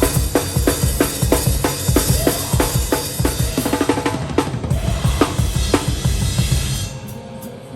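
Live metalcore drum kit played hard and fast: rapid kick-drum hits under snare cracks and Meinl cymbals, heard close from behind the kit. About seven seconds in the playing stops and the sound drops away to a brief lull.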